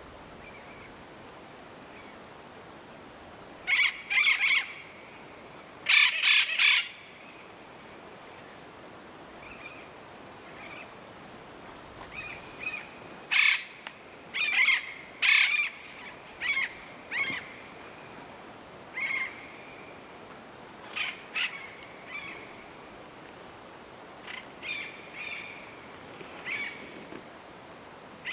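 Yellow-eared parrots calling: short, loud calls, some given in quick pairs or triplets, repeated at irregular intervals of a second or two, with quieter calls between them.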